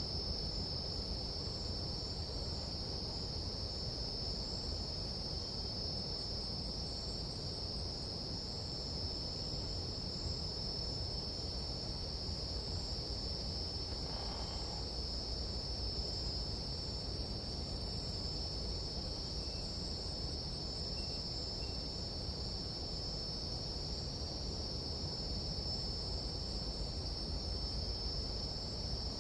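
Nighttime tropical insect chorus: a steady, unbroken high-pitched trilling of crickets or similar insects over a low, steady rumble.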